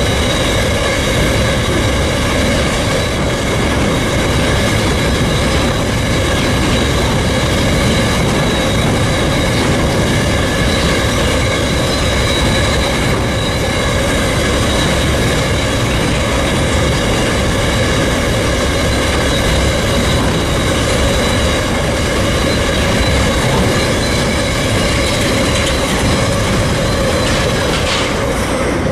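Train of mineral sands wagons rolling past: a steady heavy rumble of steel wheels on rail, with a sustained wheel squeal at several high pitches. The squeal and rumble thin out near the end as the last wagon passes.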